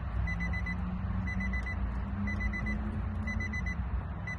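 Car warning chime beeping in quick bursts of four high beeps, a burst about once a second, over a steady low rumble.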